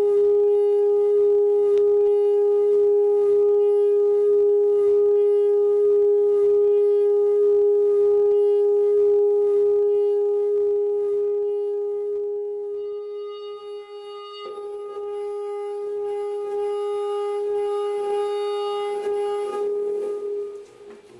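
A single steady tone with buzzy overtones is held for about twenty seconds, shifting slightly about two-thirds of the way through and stopping near the end. It is the sound used to vibrate the wet, salted paint in cymatic sound-wave painting.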